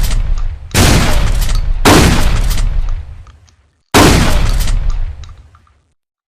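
Trench shotgun firing: three loud blasts about one to two seconds apart, with the tail of an earlier shot at the start. Each blast has a long echoing decay, and the last fades out over about two seconds.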